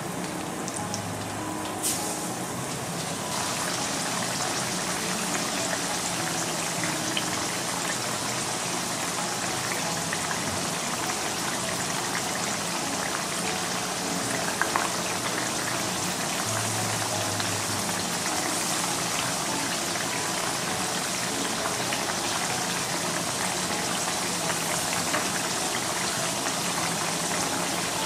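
Potato slices coated in potato starch sizzling steadily as they shallow-fry in about 5 mm of oil in a frying pan. The sizzle grows louder about three seconds in, with a few light ticks.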